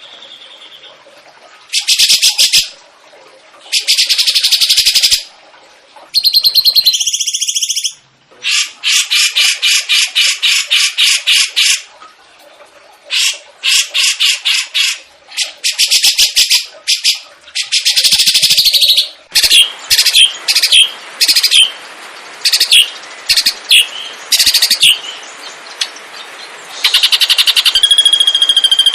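Songbird song of the kind used as masteran training recordings: bursts of rapid trilled and chattering notes, some running for a few seconds, separated by short pauses, with sharp single chirps in the later part.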